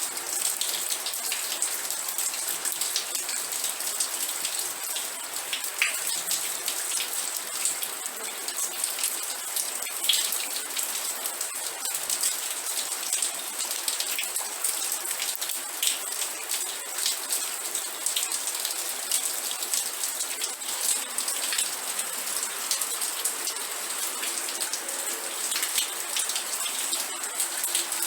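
Steady rain with many drops ticking on a hard surface, a dense hiss weighted to the high end.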